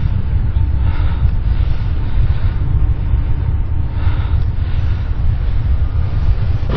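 A loud, steady deep rumbling drone of the kind reported as the mysterious 'strange sounds' in the sky, with faint higher swells coming and going about every one and a half to two seconds.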